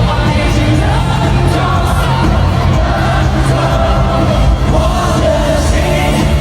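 Live pop music played loud through a stadium sound system, with heavy steady bass, singing and a crowd cheering along.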